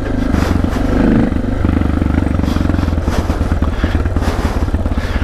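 Suzuki DR650 dual-sport motorcycle's single-cylinder four-stroke engine running steadily under way on a mountain dirt track. The engine note dips and recovers about a second in.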